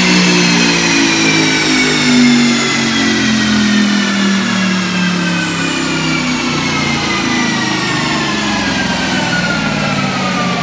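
Audi R8's 4.2-litre V8 on a chassis dyno, fitted with a Milltek exhaust, coming off the top of a power run: the engine note and a high whine fall steadily in pitch as the car and rollers slow down.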